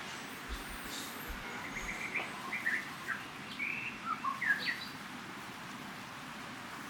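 Birds chirping: a run of short, quick high notes, some sweeping down in pitch, clustered between about two and five seconds in, over a steady background hiss.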